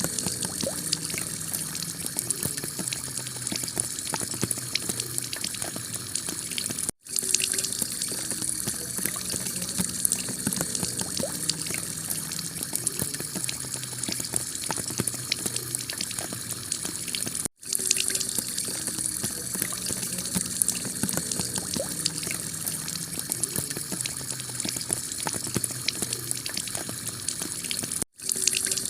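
Heavy rain pattering on a clay-tile roof: a dense, steady patter of drops. It cuts out for a split second three times, about every ten seconds.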